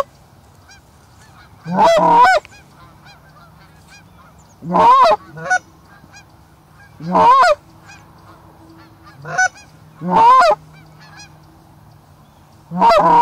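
Goose honking in loud bursts of quick, rising-and-falling honk notes, about every two and a half seconds, as geese approach the decoy spread.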